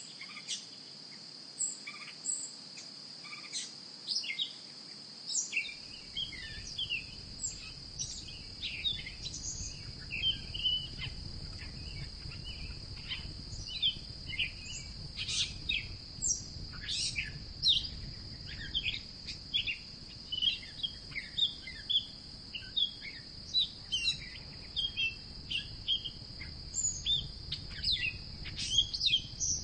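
Outdoor ambience of many birds chirping in short, scattered calls over a steady high insect drone. A low rumble joins in about six seconds in.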